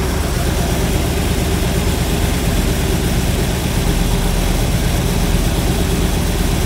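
Chevrolet 327 small-block V8 with an Edelbrock four-barrel carburetor idling steadily while an idle mixture screw is turned in clockwise, leaning the idle toward the point where the idle speed drops.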